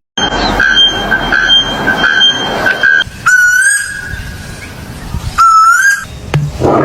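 Whistling: one high note held for about three seconds, then two short notes about two seconds apart that each slide upward and level off.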